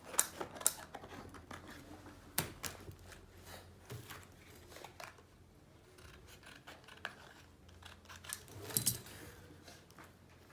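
Scissors snipping and clicking, a handful of sharp snips at irregular intervals.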